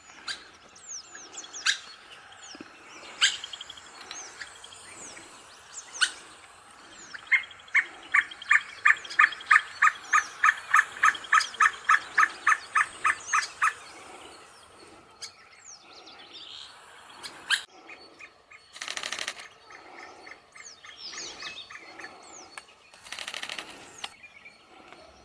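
Red spurfowl calling: a long run of loud, evenly spaced notes, about three or four a second, lasting some six seconds midway. Short, high, falling chirps of small birds sound throughout, with two brief bursts of noise near the end.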